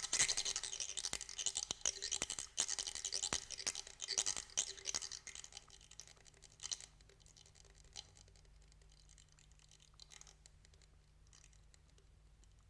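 Rapid, dry scraping and rattling from a primitive percussion instrument, dense for about the first seven seconds, then thinning to a few scattered clicks.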